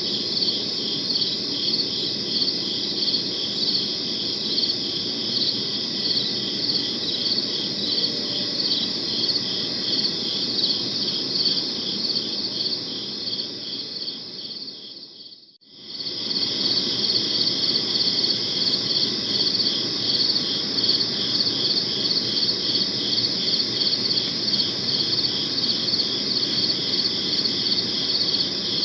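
Crickets chirping in a dense, steady, pulsing chorus over a low background hiss. About halfway through it fades down to near silence and swells back within a second or two.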